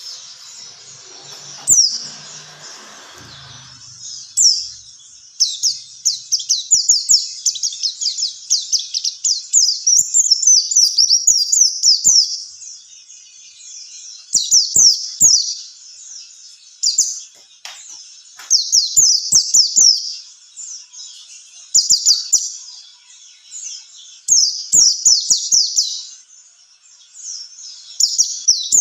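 White-eye (pleci) songbird singing in bursts of rapid, high, falling twittering notes, phrase after phrase with short pauses between them.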